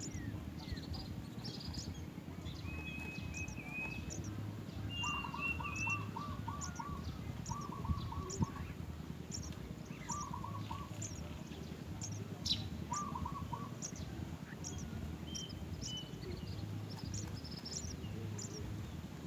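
Small birds chirping: short high chirps repeated throughout, with several quick runs of rapid lower notes in the first half and a couple of brief whistles, over a steady low background rumble.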